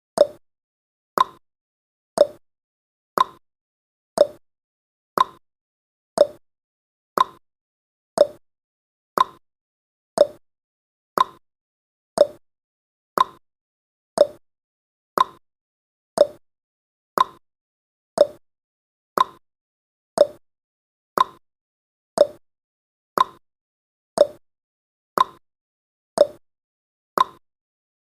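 Clock-style ticking sound effect of a countdown timer: a sharp tick once a second, alternating between a lower and a higher tone like a tick-tock, each tick dying away quickly.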